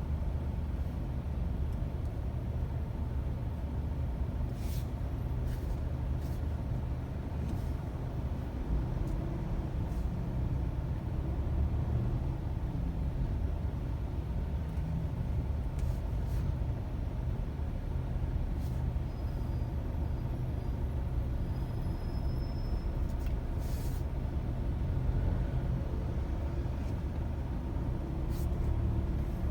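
Car driving in city traffic: a steady low rumble of engine and tyres, with a few brief clicks.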